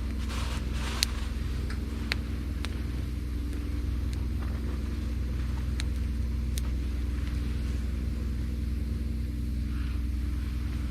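Wood campfire of dry branches and driftwood crackling, with a handful of sharp pops over a steady low rumble.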